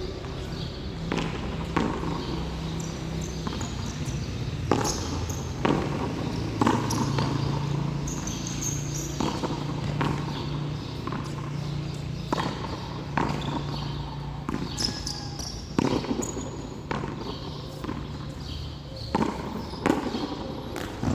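Frontón handball in play: a rubber ball smacked by bare hands, striking the wall and bouncing on the court, sharp irregular impacts about once a second. A steady low hum runs underneath.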